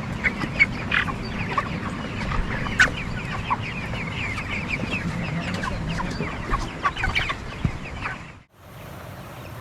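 A flock of broiler chickens in a poultry shed, many birds peeping and clucking at once in a dense, overlapping chatter. It cuts off abruptly about eight and a half seconds in, leaving a quieter steady background.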